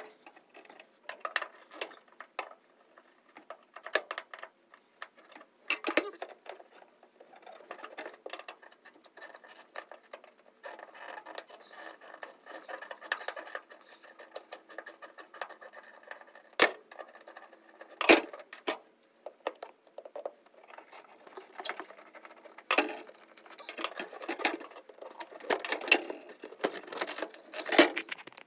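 Hand tools working on an old car's metal fasteners and floorboards: irregular clicks, scrapes and knocks, with a steadier stretch in the middle and a sharp loud knock about 18 seconds in.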